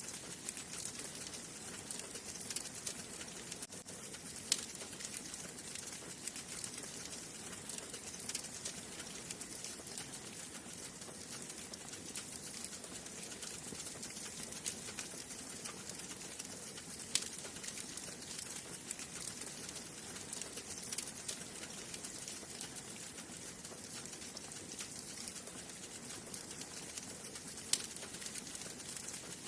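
Wood fire burning in a fireplace: a steady hiss with continuous small crackles and a few sharper, louder pops from the burning logs.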